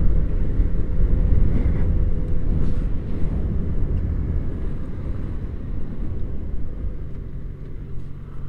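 Motorcycle on the move, heard from the rider's camera: a steady low rumble of engine, wind and road noise that eases a little over the last few seconds.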